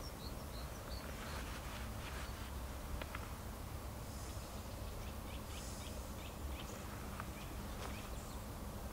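Faint ambience with a steady low rumble and small birds chirping: a few high chirps in the first second, then a run of short chirps around the middle.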